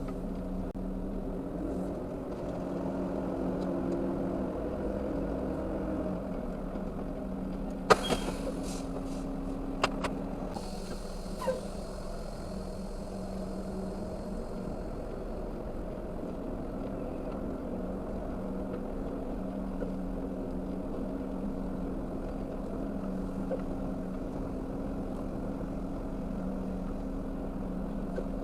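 Semi truck's diesel engine idling steadily. A few sharp clicks come about a third of the way in, followed by a soft hiss lasting several seconds.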